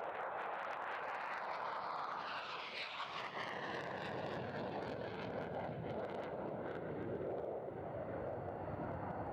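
B-52 bomber's jet engines, a steady roar with a whine that falls in pitch over a few seconds as the aircraft goes past.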